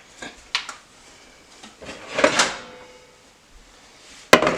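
Handling noises from working the meat: a few light clicks, a scraping rustle about two seconds in, and one sharp knock near the end.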